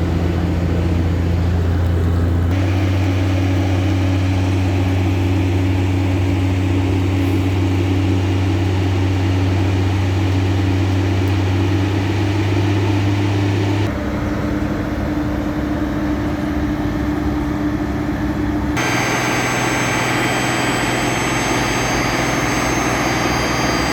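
Diesel engine of a Sany concrete mixer truck running steadily, its pitch stepping abruptly to a new level three times.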